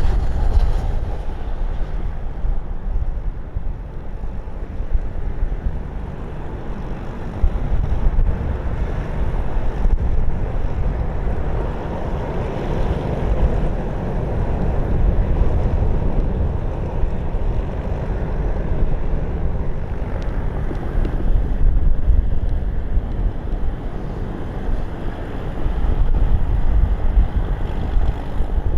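Strong gusty wind buffeting the microphone: a low rumble that swells and eases in gusts.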